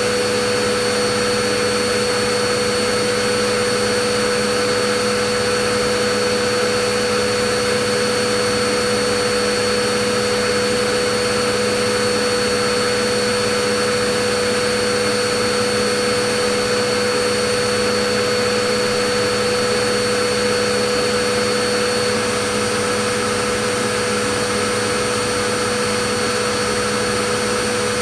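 Vacuum cleaner running steadily: a constant rushing noise with a steady motor whine in several fixed pitches, unchanging throughout.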